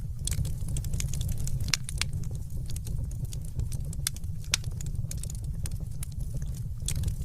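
Wood fire crackling, with frequent sharp irregular pops over a steady low rumble of flame.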